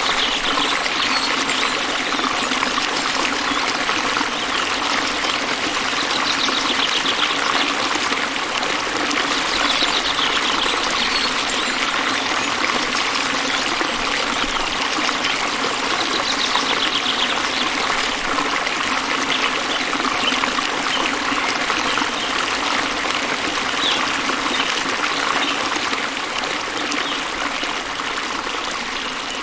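Stream water running and trickling steadily, with faint high trills now and then.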